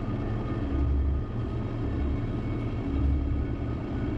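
Fast rescue boat's engine running under way: a steady low rumble with a faint steady whine above it, swelling and easing every second or so.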